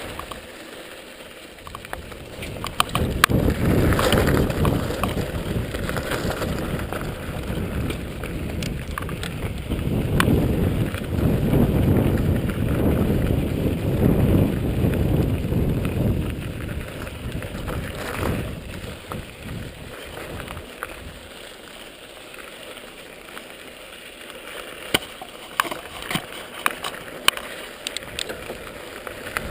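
Mountain bike riding fast down a dirt trail: rushing wind on the microphone and tyre and frame rattle over the ground, louder for the first half and then easing off, with sharp clicks and knocks near the end.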